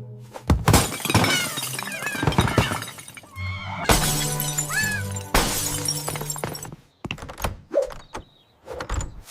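Dramatic background music with several loud crashes and shattering, like breaking glass: three big ones in the first six seconds, then lighter knocks and clatter.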